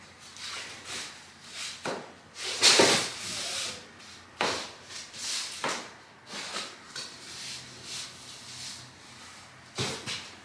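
Scattered rustling and light knocks with no steady tone; the loudest rustle comes about three seconds in.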